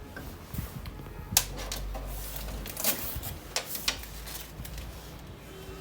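Scattered sharp clicks and knocks of hard parts and packaging being handled, four or so over several seconds, the first about a second and a half in, over a low hum.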